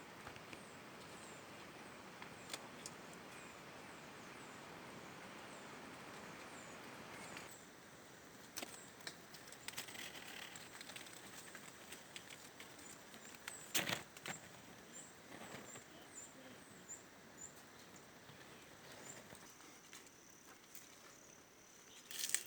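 Faint, thin, high-pitched bird calls: short downward-sliding chirps repeated every second or so. They sound over a steady outdoor noise haze that drops away about seven seconds in. A few sharp knocks or clicks come through, the loudest about fourteen seconds in.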